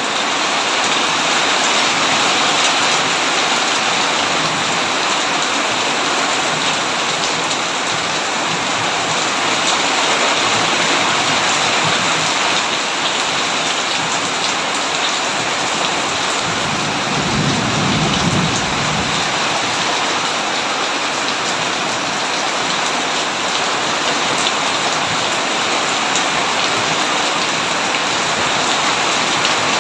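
Heavy rain pouring steadily on a tin roof, with a low roll of thunder about halfway through that lasts a few seconds.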